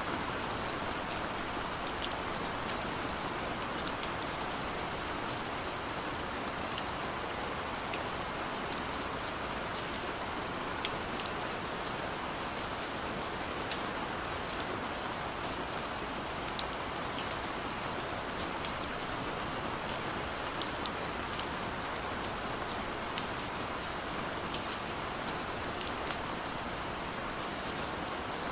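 Steady gentle rain: an even hiss of falling rain with many separate drops ticking sharply on a surface throughout.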